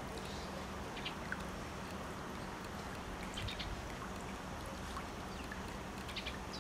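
Outdoor ambience: a steady low rumble like wind on the microphone, with a few brief high chirps or clicks every second or two.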